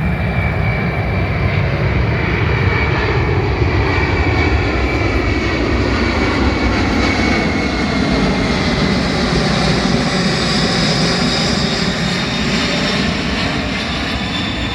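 Fixed-wing aircraft flying over, its engines running loud and steady, with a high whine that slowly drops in pitch as it passes.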